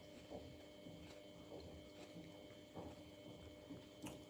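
Near silence: room tone with a few faint, soft sounds about a second apart.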